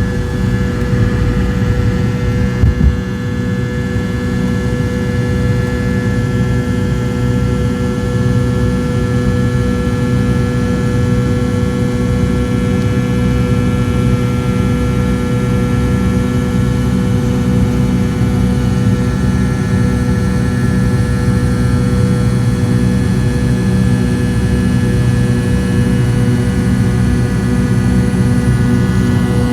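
Cabin noise of a McDonnell Douglas MD-88 from a seat near the tail, where its two rear-mounted Pratt & Whitney JT8D turbofans run steadily: a loud, even rumble with several steady whining tones over it. A couple of brief bumps come about three seconds in.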